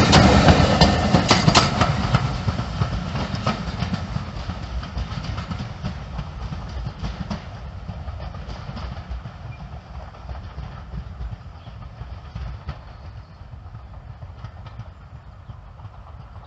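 Passenger coaches of a heritage train rolling past, their wheels clicking over the rail joints. The sound fades steadily as the train draws away into the distance.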